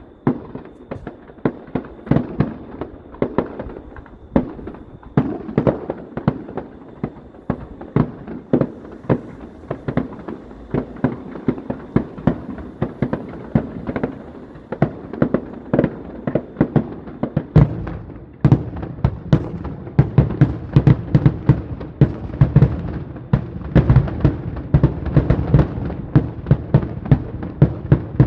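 Fireworks display: a rapid, continuous barrage of sharp bangs, several a second, growing denser and louder with a deeper rumble from about two-thirds of the way through.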